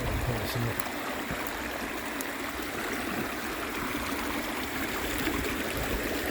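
Shallow stream running over rocks: a steady rush of water, with a few dull low thumps about half a second in.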